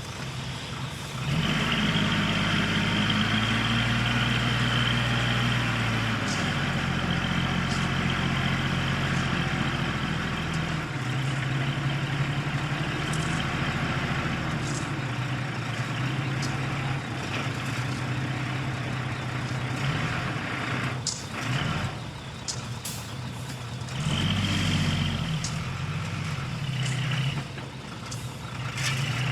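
Heavy diesel engine of earthmoving machinery running, working hard under load from about a second in and easing back after about ten seconds, with another short surge near the end. Sharp clicks and knocks are scattered through the second half.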